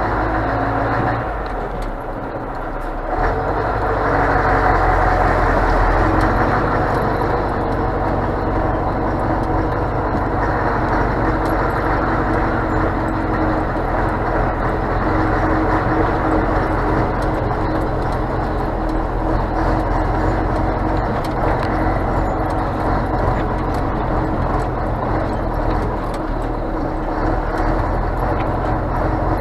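Scania truck's diesel engine and road noise while driving, steady throughout; the sound eases off briefly about a second in, then comes back up and holds.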